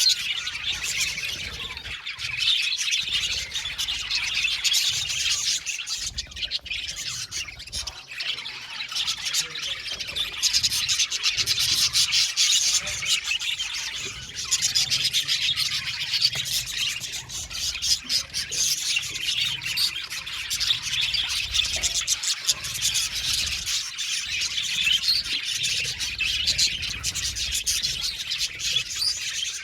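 A flock of budgerigars chattering without a break, with many overlapping chirps, warbles and squawks.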